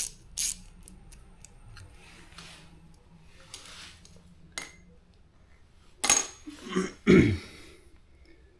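Workshop hand-tool work on a motorcycle engine teardown: a ratchet wrench clicks through a stroke or two at the start. About six to seven seconds in comes a loud clatter of metal parts being handled and set down.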